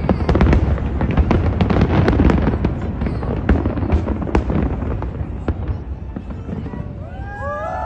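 Fireworks going off in a dense run of bangs and crackles that thins out toward the end, when several wavering, gliding tones begin.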